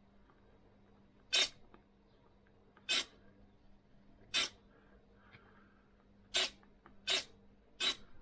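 Reef Raw 500 RC servo driven by a servo tester, its motor and gears whirring in six short bursts as it swings back and forth. The test shows a bent output shaft.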